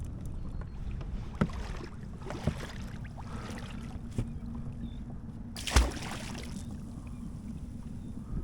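Fishing kayak on the water: a steady low rumble with a few light knocks on the hull, and a louder thump and watery swish about six seconds in.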